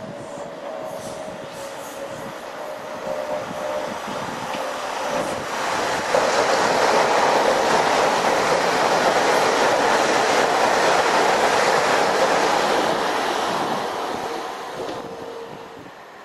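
South West Trains electric multiple-unit passenger train approaching with a steady whine, then passing close by with a loud rush of wheel-on-rail noise from about six seconds in, fading away near the end.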